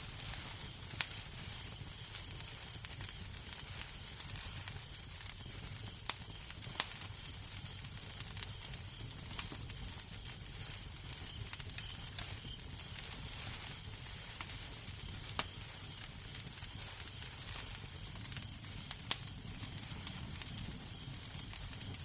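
Wood fire crackling in a fireplace: a steady hissing sizzle over a low rumble, broken by irregular sharp pops and snaps, a few of them louder than the rest.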